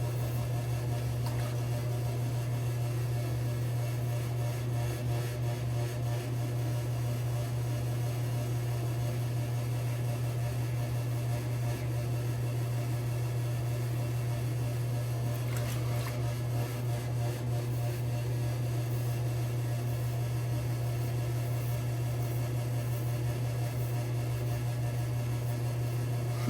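A steady low hum, like a fan or mains hum, running unchanged without a break.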